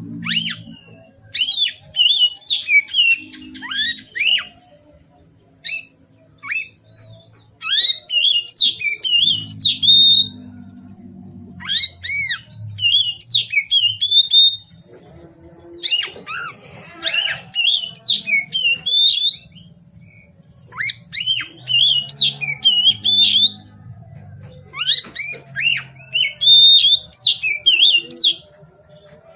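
An Oriental magpie-robin (kacer) singing loud, varied song phrases of quick rising and falling whistles, in bursts of a few seconds with short pauses between. A steady high hiss runs underneath.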